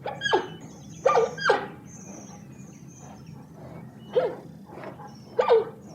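A dog barking: about five short yelping barks, each falling in pitch, in pairs with a pause of a couple of seconds between.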